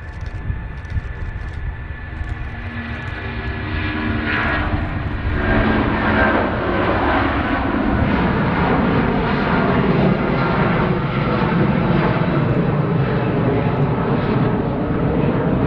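Jet airliner engines growing louder over the first few seconds, with a whine in them at first, then holding as a loud, steady rumble.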